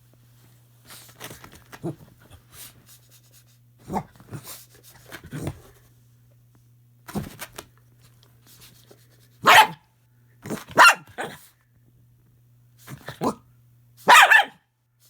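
A dog barking in scattered short bursts, with softer growls and huffs between them. The loudest barks come in the second half.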